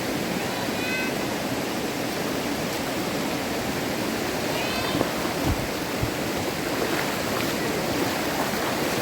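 Rushing river water, a steady even noise. A few short high chirps sound over it, and two dull thumps about halfway through.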